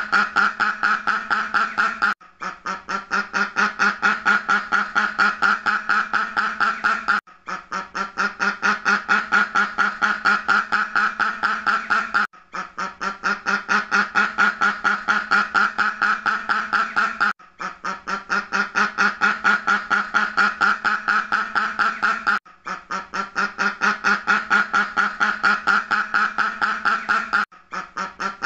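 A duck quacking in a fast, steady run of several quacks a second. The run breaks off for a moment about every five seconds and picks up again, so it sounds like a short recording played on repeat.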